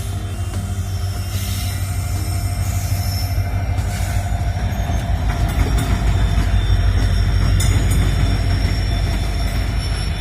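Passenger train running on the rails: a loud, steady low rumble that swells toward its loudest in the middle and eases near the end, with a thin high wheel squeal over it.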